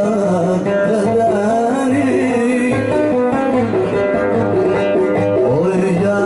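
Yemeni Hadrami jalsa music: a plucked oud playing a melody with singing.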